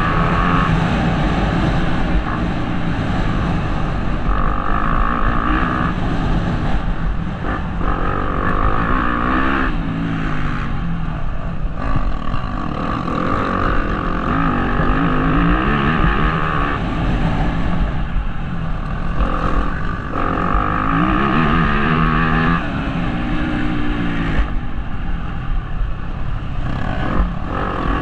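Motocross bike engine revving hard, its pitch climbing and falling over and over as the throttle is opened and shut, with short drops every few seconds, heard from a helmet-mounted camera.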